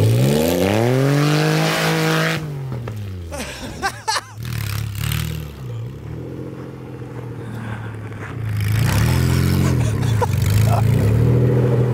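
Lifted Subaru Forester's engine revving hard through snow, its pitch repeatedly swinging up and down as the throttle is worked. It drops quieter for a few seconds in the middle, with a couple of sharp knocks, then comes back louder near the end.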